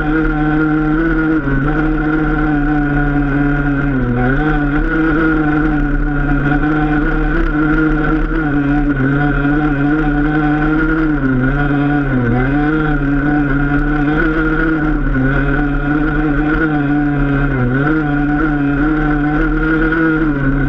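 Enduro motorcycle engine running at steady, fairly high revs, its pitch dipping briefly about three times.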